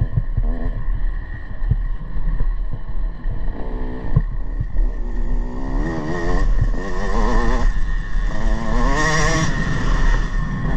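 Motocross bike engine revving up and dropping off several times, its pitch wavering, over a deep constant rumble of wind on the microphone, with scattered short knocks and clatter.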